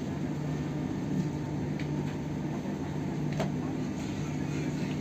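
Steady low hum inside a passenger train's cabin as the train pulls away from a station, with a couple of faint clicks in the middle.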